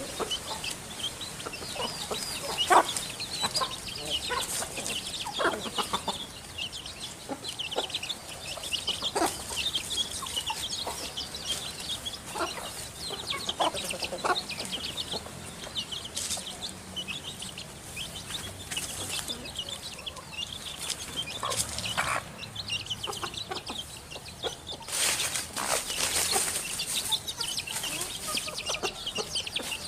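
Backyard birds calling: a steady chorus of short, high chirps, with lower, short calls scattered through it.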